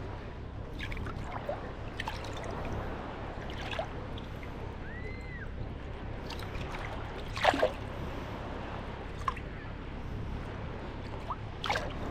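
Small sea waves lapping at the shoreline in a steady wash, with scattered short splashes and clicks of water, the loudest about seven and a half seconds in and a few more near the end. A brief high chirp sounds about five seconds in.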